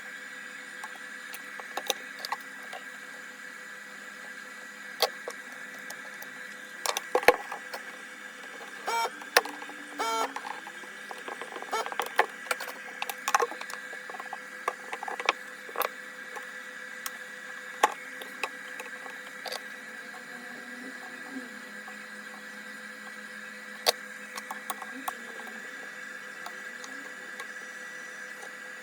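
Scattered sharp clicks and knocks, busiest in the middle stretch, over a steady high-pitched electrical hum.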